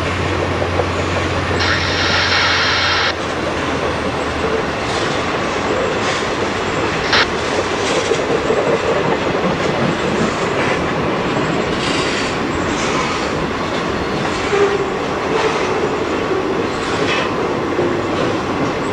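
Freight train passing close by: railcars rolling with a steady rumble and repeated clicks and clacks of wheels over rail joints. A low hum is heard for the first few seconds, and a brief high-pitched sound lasts about a second near the start.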